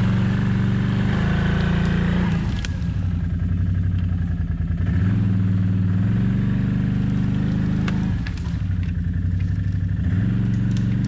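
Vehicle engine running, its low note dropping and picking up again several times as the revs change.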